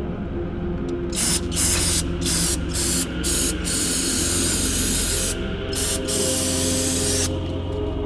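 Aerosol can of brake cleaner spraying onto an oily engine: several short bursts in the first three seconds, then one long spray of a few seconds with a brief break. Background music plays underneath.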